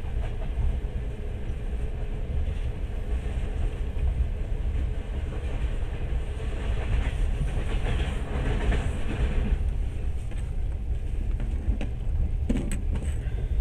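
Train running along the rails: a steady low rumble with rolling wheel noise, and a few sharp clicks near the end.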